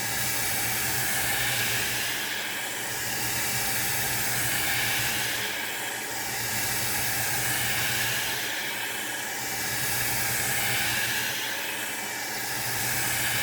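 Revlon hair dryer running on its high setting, a steady rushing of air with a low hum underneath. The sound swells and fades about every three seconds.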